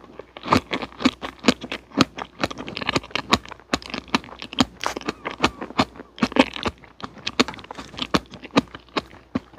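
Close-miked chewing of a soft strawberry-and-cream sponge omelet: a steady run of mouth clicks, about three a second.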